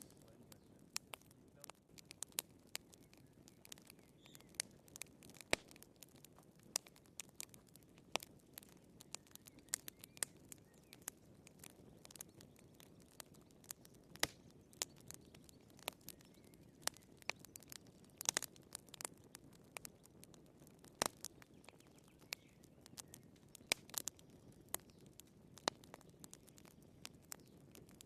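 Wood fire crackling in a fireplace: irregular sharp pops and snaps from the burning firewood, several a second, over a soft low rustle.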